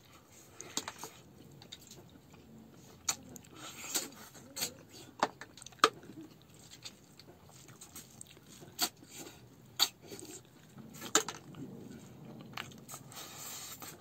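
Close-up eating sounds: a man chewing a mouthful of rice and meat, with sharp wet mouth clicks at irregular intervals, the loudest about six seconds in.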